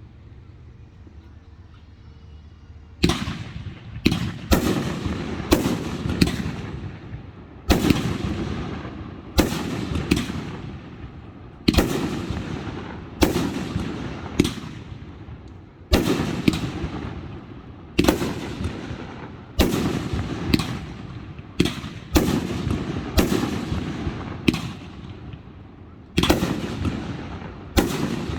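Fireworks display: after a lull of about three seconds, a steady run of loud booms begins, coming about one or two a second, each one echoing away before the next.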